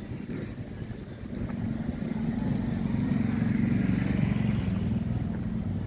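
A motor vehicle's engine going by close at hand, its low hum growing louder to a peak a few seconds in and then easing off.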